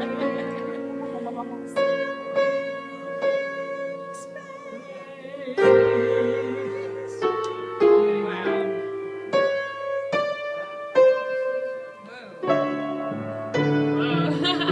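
A keyboard instrument played live, a slow tune in chords over held bass notes, with a new note or chord struck every second or so.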